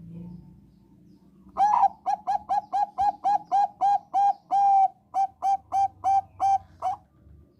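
Thai-bred zebra dove (perkutut bangkok) singing: a quick series of about eighteen short, clear cooing notes, roughly three to four a second, beginning about a second and a half in and stopping near the end, with one longer held note midway.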